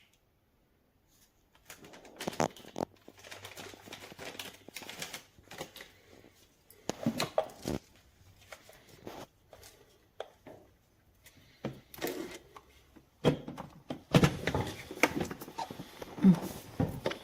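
Irregular clicks, knocks and rustling of objects being handled, with a faint low hum under part of it.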